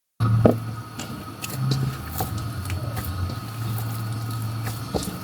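A steady low mechanical hum with a faint, steady high whine above it, and scattered light clicks and knocks.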